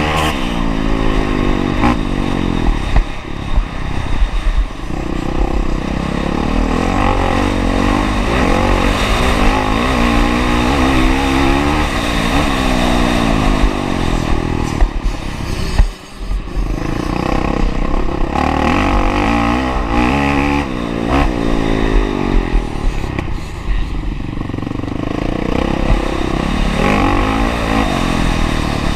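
Honda CRF450R's single-cylinder four-stroke engine revving hard and easing off again and again as the motocross bike is ridden around the track. The engine note drops away sharply for a moment about halfway through.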